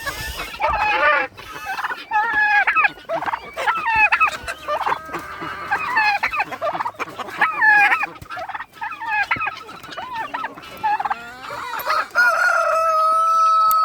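Chickens clucking and calling over one another, with a rooster crowing; one long, drawn-out crow starts near the end.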